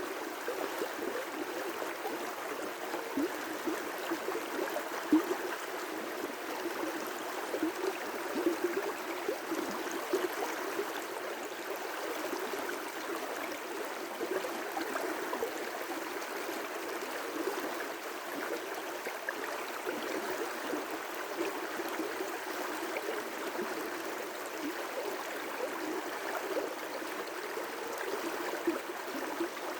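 River rapids: water rushing and splashing over rocks in a steady, continuous flow, with small bubbling spatters throughout.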